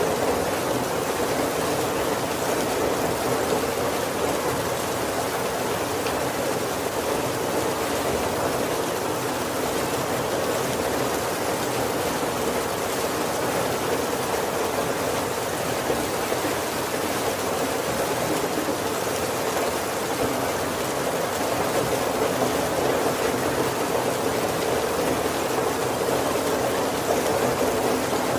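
Heavy rain falling steadily on a wooden carriage roof, a dense, even patter with no single drops standing out.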